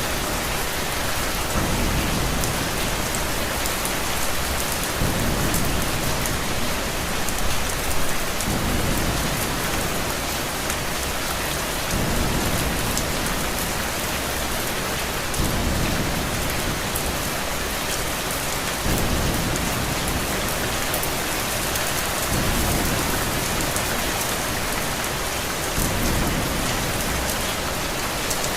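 Steady, dense rainfall, with a low rumble of thunder that swells and fades about every three to four seconds.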